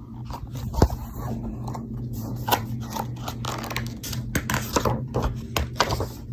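Close handling noise: a run of scrapes, rustles and clicks, with one sharp knock just under a second in, over a steady low hum.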